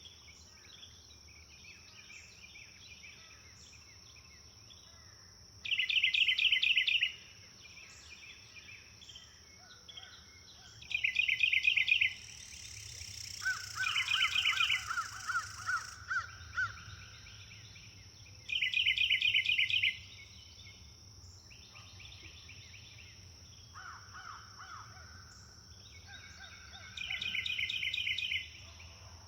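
Wild birds calling in the open: five or so loud, rapid chattering trills about a second long, spaced several seconds apart, with a run of shorter rising notes from another bird in the middle. A steady high insect drone runs underneath throughout.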